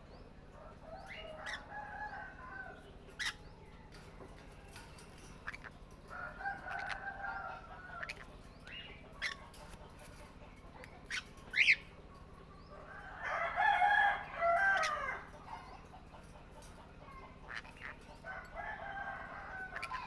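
Birds calling: four long, drawn-out calls of about two seconds each, with short sharp chirps and clicks between them and one loud rising chirp about halfway through.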